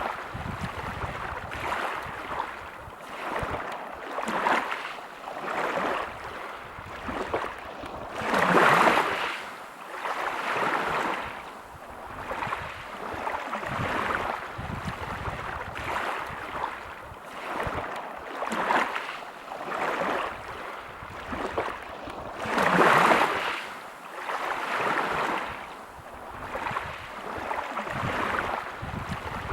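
Small waves breaking and washing over a pebble beach, a rushing surge every second or two. Two bigger waves break about eight and twenty-three seconds in.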